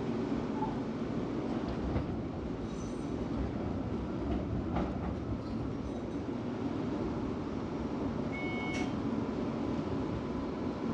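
Melbourne tram running along its tracks, heard from on board: a steady rumble of wheels and motors, with a few faint clicks and a short high tone about eight and a half seconds in.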